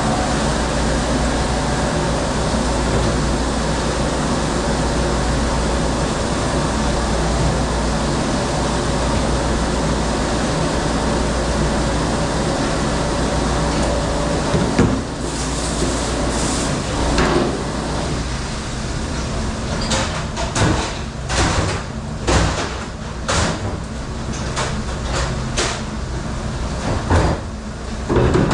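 Commercial dish room: machinery runs with a steady rumble and hum. About halfway in, a run of sharp clattering knocks from dishes and racks being handled starts, roughly one or two a second.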